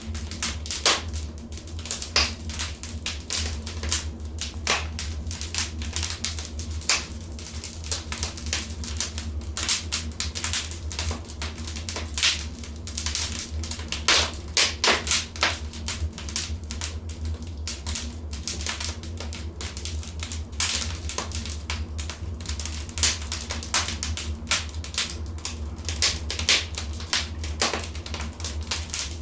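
Wood fire crackling in a fireplace: irregular snaps and pops, some sharper and louder than others, over a steady low rumble.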